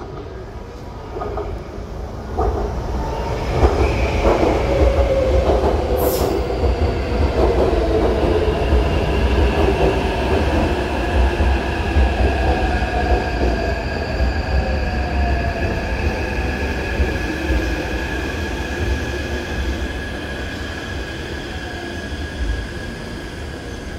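Taipei Metro train running past on the Tamsui–Xinyi line: it grows louder over the first few seconds, then runs on steadily with a heavy rumble, wheel squeal and a whine that slowly falls in pitch. There is a single sharp click about six seconds in.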